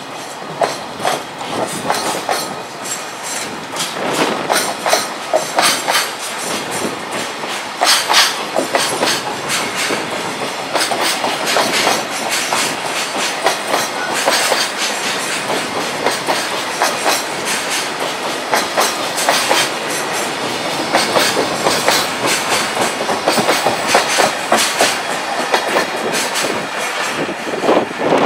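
Container freight train wagons rolling past, their wheels clacking over the rail joints in repeated clusters of knocks.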